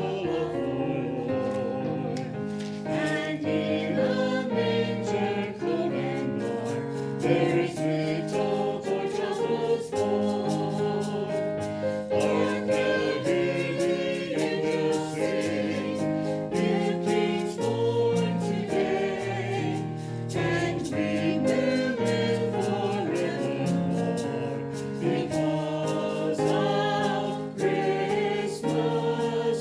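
Church choir singing with instrumental accompaniment, the voices moving through sustained chords.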